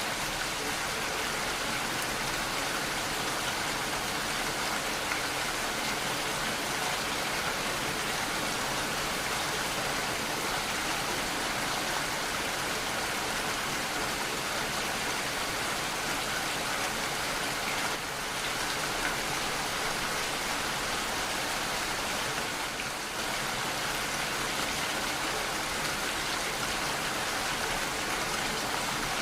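Steady heavy rainfall, an even hiss of falling rain with no thunder.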